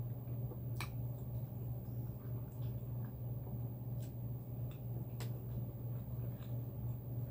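A person chewing a mouthful of shrimp alfredo with thin spaghetti, close to the microphone: soft, wet mouth sounds with a few sharp clicks, over a steady low hum.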